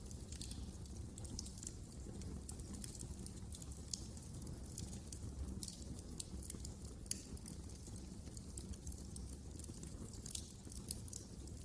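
Wood fire crackling in a fireplace: frequent small snaps and pops over a low, steady rumble of the flames.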